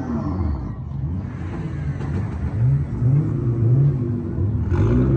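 Car engine being revved over and over, its pitch rising and falling about once a second.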